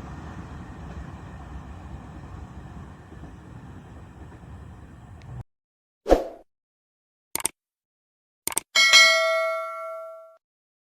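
Rumble of a passing train, fading slightly, cut off abruptly about five seconds in. Then three short swishes or clicks, followed by a bright bell ding that rings for about a second and a half: an added sound effect.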